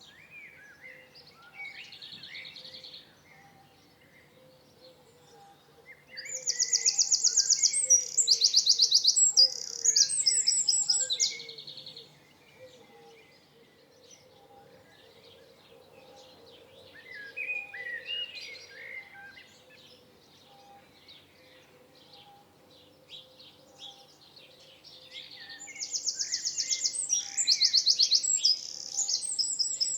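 Songbirds singing: a loud, rapid, high trilling song in two long phrases, one about six seconds in lasting some six seconds and another starting near the end, with softer chirps between them.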